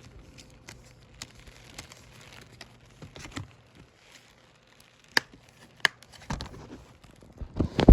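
Hands handling a Blu-ray case and its plastic packaging: light crinkling and rustling with scattered small clicks, two sharp clicks past the middle, and a few heavier thumps near the end.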